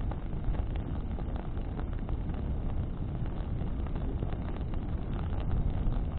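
Bonfire burning in the wind: a steady low rumble of wind and flame, with scattered sharp crackles from the burning wood.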